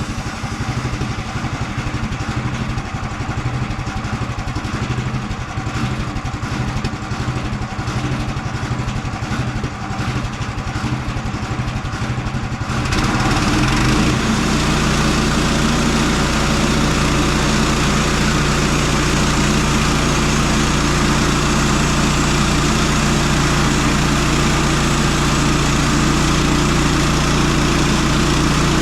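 Small gasoline engine of a portable sawmill running at idle. About 13 seconds in it is throttled up to a higher, louder speed and holds there steadily.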